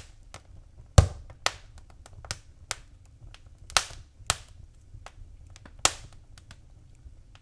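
Wood fire crackling, with irregular sharp pops and snaps, the loudest about a second in, over a faint low rumble.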